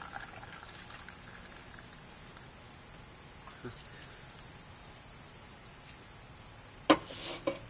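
Crickets trilling steadily in the background, a continuous high chirring. A single sharp knock comes near the end.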